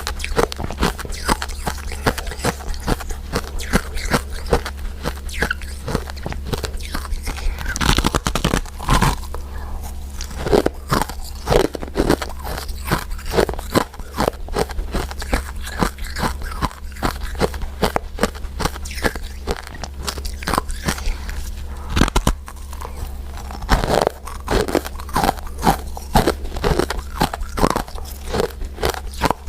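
Close-miked chewing and biting of powder-coated mint sweets: dense, irregular crunchy clicks and crackles, thickest in a few clusters, over a steady low hum.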